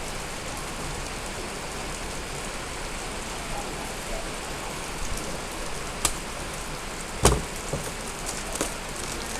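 Steady rain falling, with a couple of sharp knocks about six and seven seconds in; the second is the loudest.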